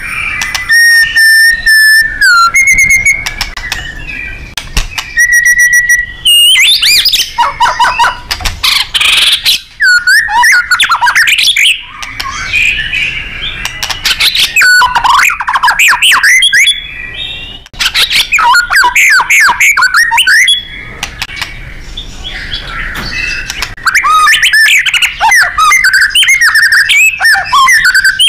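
White-rumped shama (murai batu) singing loudly and without a break. Its song is a string of varied whistled phrases, quick rising and falling glides and rapid trills, with a few long held whistles near the start.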